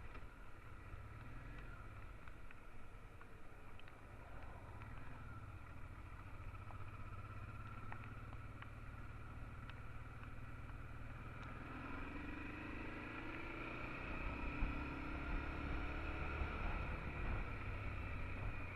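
Honda Transalp XL650's V-twin engine running as the motorcycle is ridden. About two thirds of the way through, the engine note rises slightly and grows louder, as the bike picks up speed.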